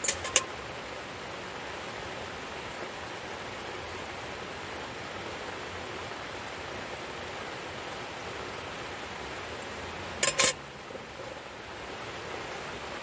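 Steady heavy rain falling, an even wash of noise, with short sharp clicks or knocks right at the start and again about ten seconds in.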